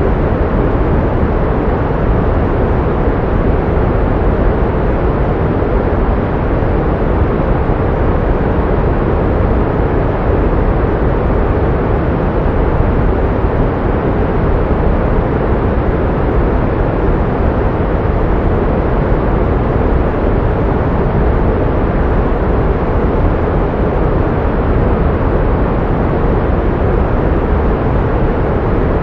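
Pink noise: a steady, even hiss, fuller in the bass with little treble, that never changes.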